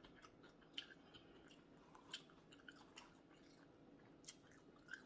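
Faint close-miked chewing of food, with a few sharp wet mouth clicks.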